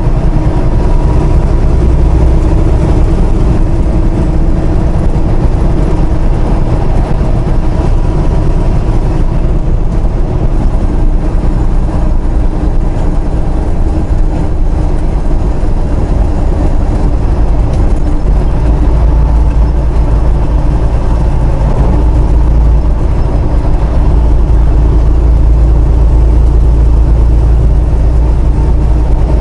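Inside a moving semi truck's cab: the diesel engine drones steadily with road noise, with no change in pace.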